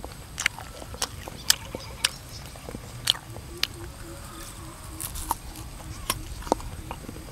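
Crisp slices of unripe green mango being bitten and chewed, giving sharp, irregular crunches about once or twice a second.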